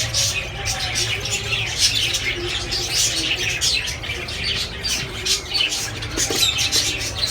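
A roomful of small caged parrots, lovebirds and budgerigars, chirping and chattering continuously in dense overlapping calls, over a steady low hum.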